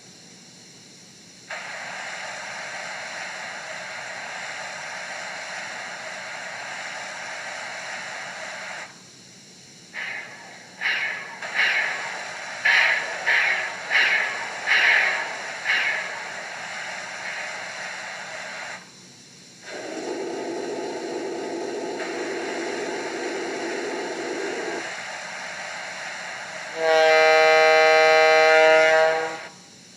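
Steam locomotive sounds from a sound-equipped model of a Southern Pacific AC-12 cab forward. A steady steam hiss, then a run of about eight evenly spaced exhaust chuffs, then a lower rush of escaping steam. Near the end comes one loud chime-whistle blast of about two and a half seconds.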